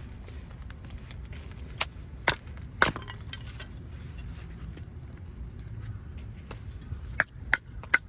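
Several sharp clicks and knocks, a few in the first three seconds and a quick cluster near the end, over a steady low rumble.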